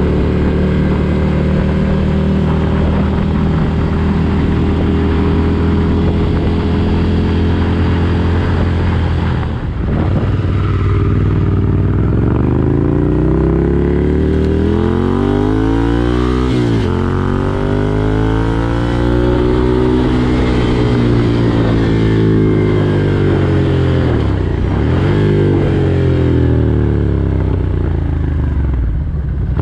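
2019 Ducati Desert Sled's air-cooled 803 cc L-twin, breathing through a Competition Werkes aftermarket exhaust, running at a steady pitch while under way for about nine seconds. It then rises and falls in pitch through several accelerations, with quick drops at the gear changes.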